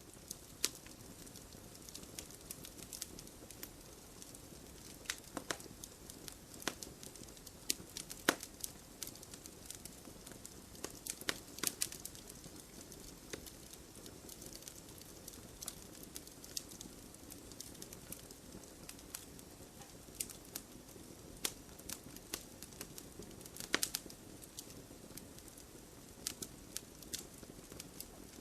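Wood fire burning with a steady low hiss and irregular sharp crackles and pops from the burning wood.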